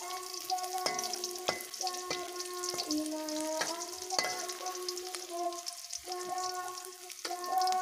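Crushed garlic and ginger sizzling in hot oil in a metal wok, being fried until fragrant, with a metal spatula scraping and tapping against the wok every second or so.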